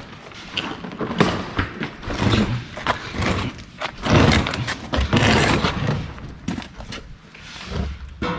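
Irregular knocks and thuds mixed with rustling noise, close to the microphone.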